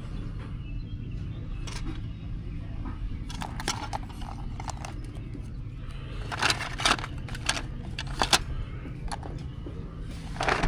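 Small hard items being handled and clinking together in short bursts over a steady low background rumble, loudest from about six to eight and a half seconds in.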